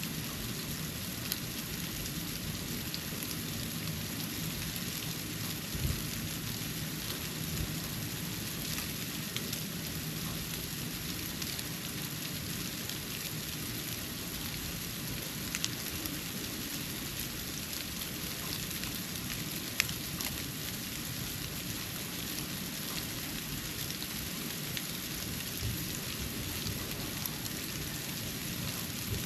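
Falling snow pattering on a porch: a steady soft hiss dotted with many small ticks of flakes landing, and a few louder single ticks.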